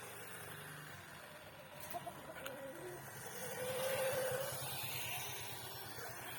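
Birds calling outdoors, with one drawn-out call that rises and falls about four seconds in.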